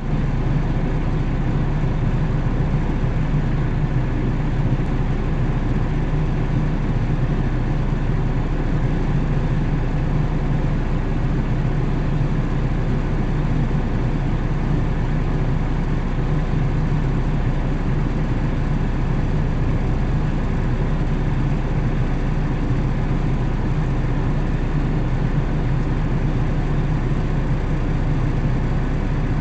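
Car engine idling, heard from inside the cabin: a steady low hum that holds even throughout.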